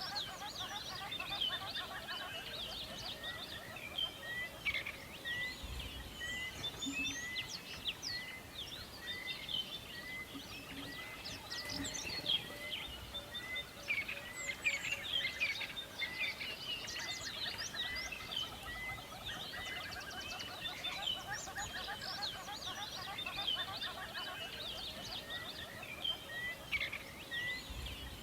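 Several forest birds calling and singing at once: many quick chirps and trills, with one bird repeating a short note nearly twice a second for long stretches.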